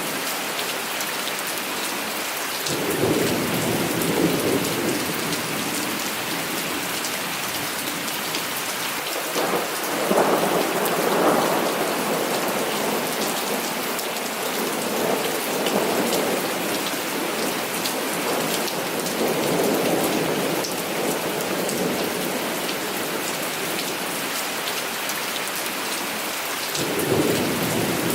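Heavy rain falling steadily, with rolls of distant thunder rumbling up and fading about five times, the loudest about ten seconds in.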